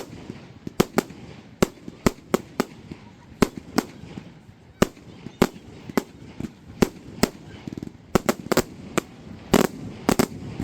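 Display fireworks bursting overhead: a rapid, irregular string of sharp bangs, some coming in quick pairs, with a crowd murmuring underneath.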